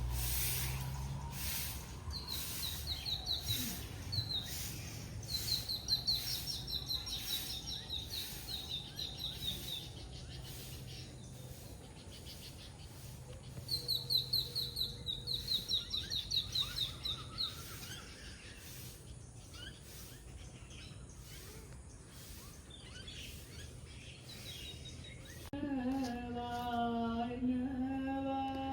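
A bird calling in several runs of quick, repeated high notes over a steady outdoor background. A voice begins chanting near the end.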